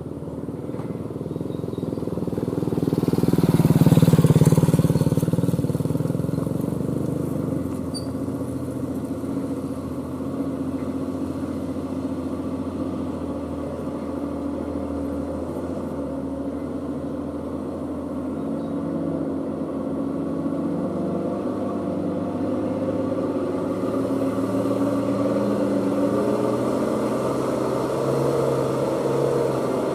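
Heavy truck engine running under load. It swells to its loudest about four seconds in, then keeps running steadily, its pitch shifting and slowly building toward the end.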